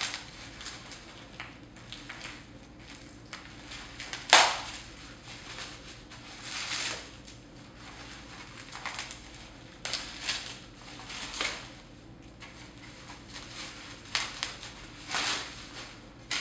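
Packaging being pulled open and rustled around a lamp barn door, with irregular crinkling and crackling. There is one sharp knock about four seconds in.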